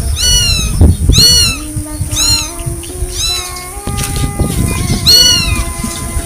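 A small kitten meowing over and over, thin high-pitched cries about once a second, the distress calls of an abandoned, hungry kitten. Wind rumbles on the microphone underneath.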